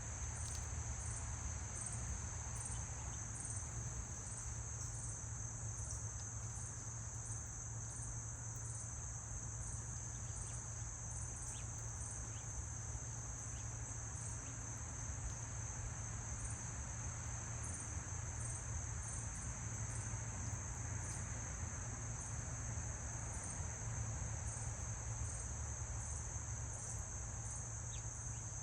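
Insects such as crickets trilling steadily, with a second, higher insect call pulsing evenly two to three times a second over it. A steady low hum runs underneath.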